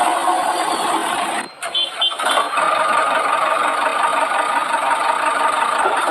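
Engine running steadily as the mini JCB drives, with a short break about a second and a half in before the engine sound resumes.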